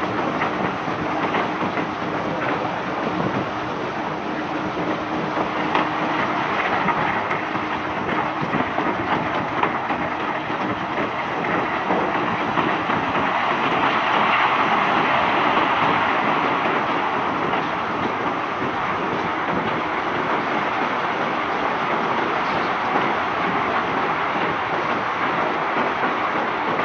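Cobblestones pouring off a barge in a continuous clattering rush, many stones rattling over one another; it swells a little about halfway through.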